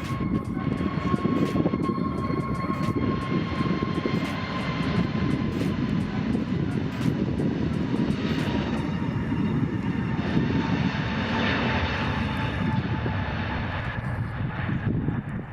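Jet airliner's engines running as it passes the airport boundary, a steady rumble with a thin whine that slowly falls in pitch.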